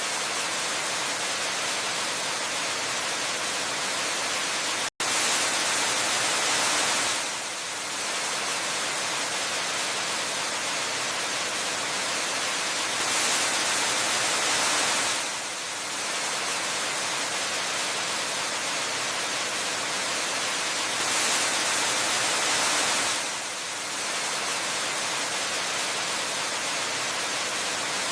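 Waterfall water rushing in a steady, even roar that swells and eases slowly every several seconds. About five seconds in it cuts out for an instant.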